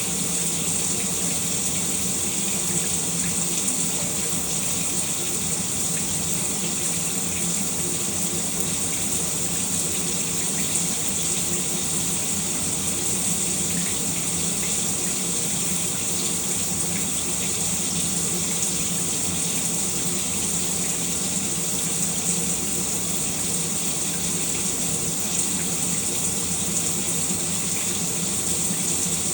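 Shower running steadily, water spraying and splashing without a break.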